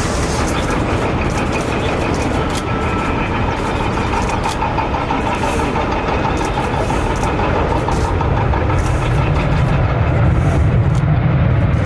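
Steady jet engine noise from an airliner, with a deeper rumble swelling in about eight and a half seconds in.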